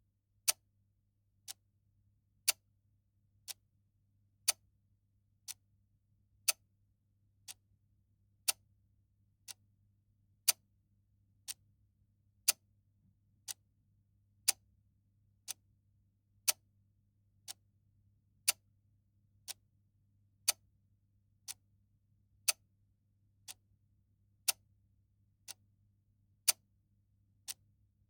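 Clock ticking steadily about once a second, the ticks alternating louder and softer in a tick-tock pattern, over a faint low hum.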